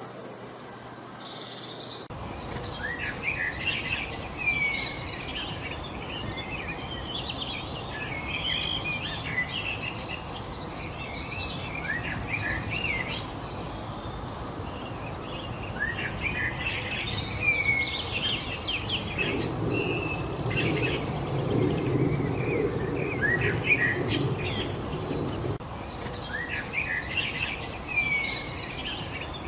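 Several birds singing and chirping in quick, overlapping phrases over a steady background hiss. A low rumble joins in for several seconds about two-thirds of the way through.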